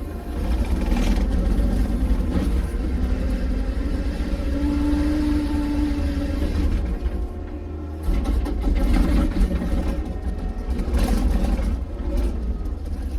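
A motor vehicle's engine running with a heavy low rumble, holding a steady tone for a second or two near the middle.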